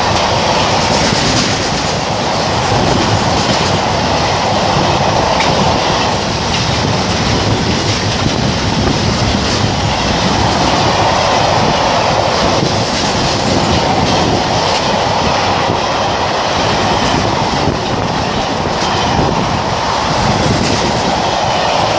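Freight train of car-carrying wagons hauled by a class 66 diesel locomotive passing at close range. Its wheels on the rails make a steady, loud noise throughout, with occasional clicks.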